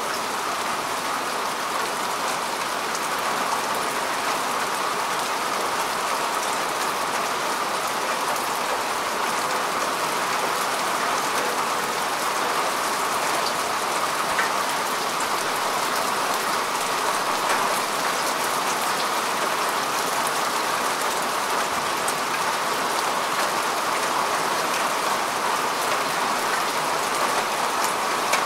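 Steady rain falling on earth and grass: an even, constant hiss of drops with faint scattered patters.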